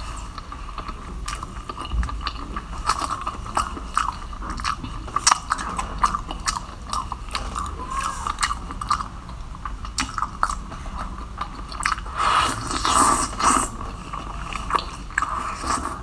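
A person chewing and biting food close to the microphone, with many sharp clicks and crackles from mouth and food, thickest about three-quarters of the way through.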